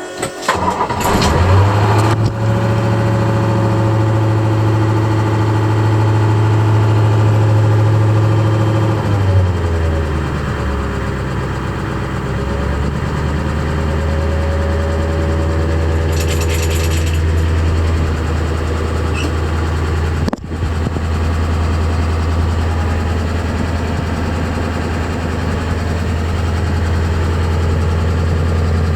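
1993 International 4600 dump truck engine on a cold start. It catches about a second and a half in and runs at a raised idle, then drops to a lower steady idle about nine seconds in. There is a brief hiss around sixteen seconds in.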